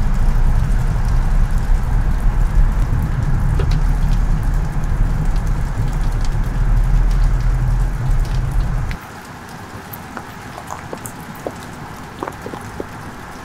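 A loud, steady low rumble that cuts off suddenly about nine seconds in, leaving rain falling with scattered individual drops pattering.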